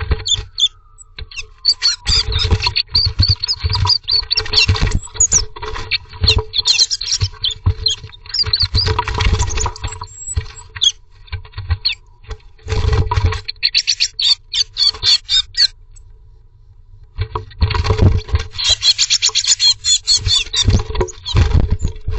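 Blue tits scuffling inside a nest box: rapid scratching and knocking, with many short, high-pitched squeaky calls. It drops out for about a second and a half about two-thirds of the way through, then starts up again.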